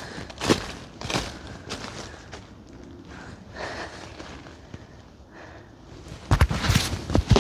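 Footsteps on the forest floor, each step a crunch roughly every half second, fading in the middle and coming back as a run of louder, heavier steps near the end.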